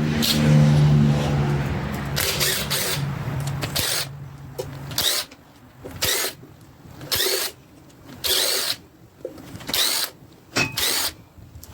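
Handheld power tool backing out the timing chain cover bolts on a small block Chevy 350: a steady run for about four seconds, then a series of short bursts about a second apart, one per bolt.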